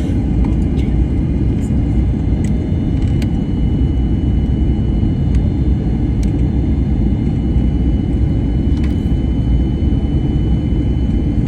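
Steady low rumble of a jet airliner heard from inside the cabin, with a faint steady high whine and a few small clicks.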